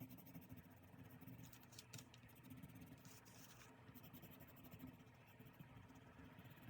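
Faint scratching on paper, in quick strokes that come and go, like stationery worked over a diary page.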